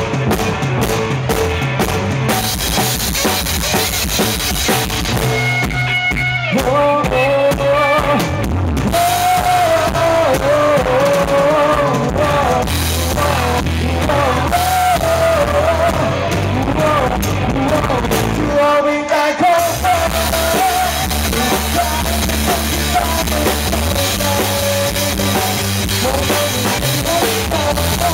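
A rock band playing live, with a drum kit and steady bass notes under a sung melody. The low end drops out for a moment about two-thirds of the way through, then the full band comes back in.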